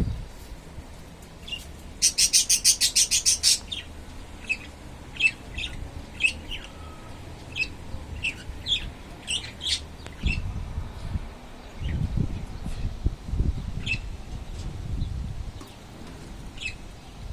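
Small birds chirping in short, scattered calls. About two seconds in comes a quick run of a dozen or so sharp claps, the loudest sound. Wind buffets the microphone in low rumbling gusts in the second half.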